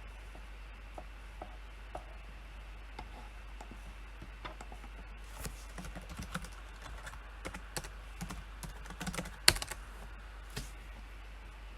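Typing on a computer keyboard: a few scattered soft key clicks, then a quick run of keystrokes from about five seconds in, with one much louder key strike near the end.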